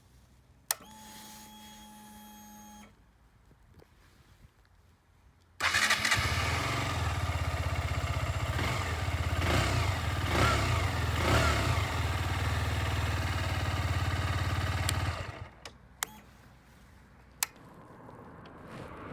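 A click, then a steady electric hum of about two seconds as the bike's electrics come on. A few seconds later the 2017 KTM 125 Duke's single-cylinder engine starts suddenly and runs for about ten seconds, its pitch rising and falling a few times, before shutting off. Two sharp clicks follow.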